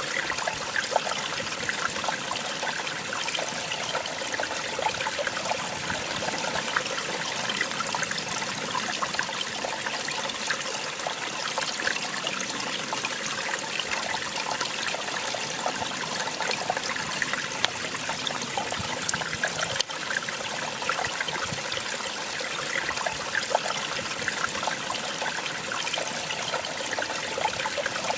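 Small waterfall splashing and trickling steadily, a dense even rush of falling water with fine splashes. One brief click about two-thirds of the way through.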